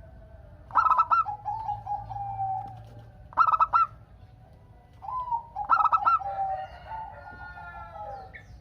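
Zebra dove (perkutut) singing: three bursts of quick, clipped cooing notes, two of them trailing into a lower, drawn-out coo.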